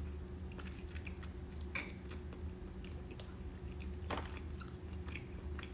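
Close mouth sounds of someone chewing boiled crawfish and boudin: soft wet smacks and scattered small clicks, with a couple of sharper clicks about two and four seconds in.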